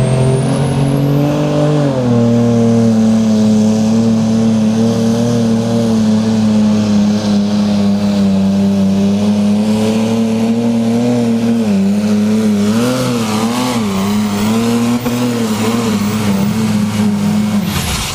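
Diesel engine of a pulling vehicle running at high RPM under load down the track. Its pitch drops about two seconds in as the load bites, holds steady, then wavers up and down several times near the end before the engine drops off sharply.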